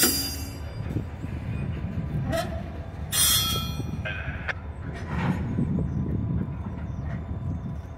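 Freight train moving slowly: a steady low rumble of locomotive and railcars, with several short screeches of wheels or brakes between about two and five seconds in, the loudest a little after three seconds.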